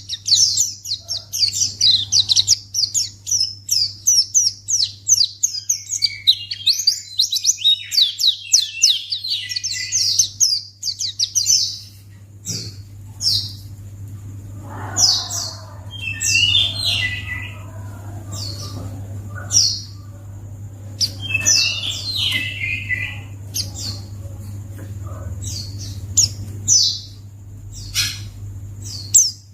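White-eye (pleci) singing: a fast run of high twittering notes for about the first twelve seconds, then scattered single chirps and short calls that drop in pitch. A steady low hum runs underneath.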